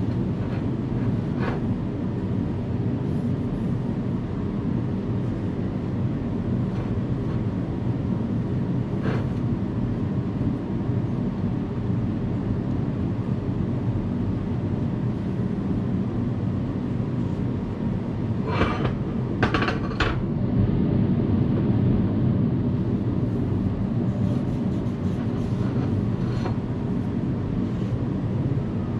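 An engine or motor running steadily, with a few sharp metal clanks over it, the loudest a quick run of three about two-thirds of the way through.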